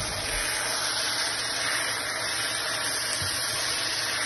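Minced chicken (keema) frying in oil in a wok, a steady sizzling hiss, as it is stirred with garlic, whole spices and ginger paste.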